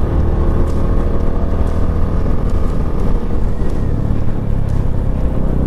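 Herald Classic 400 motorcycle engine running steadily under load as it climbs, with a low rumble underneath.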